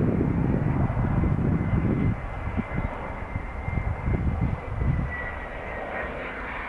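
Airliner engine noise with a faint steady high whine that dips slightly in pitch about five seconds in, under gusty wind buffeting the microphone, heavier in the first two seconds.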